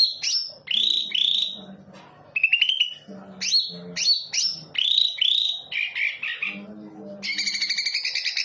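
Cucak ijo (green leafbird) singing: a quick run of short, sliding whistled notes, then a rapid buzzy trill starting about seven seconds in.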